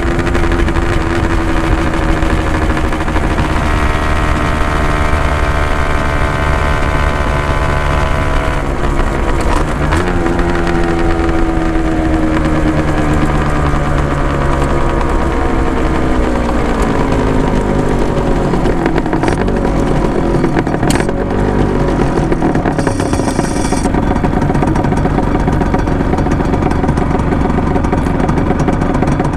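Honda NSR250R's two-stroke V-twin running through Dog Fight Racing expansion chambers while being ridden. Its note rises and falls with the revs, with a long drop in revs through the middle.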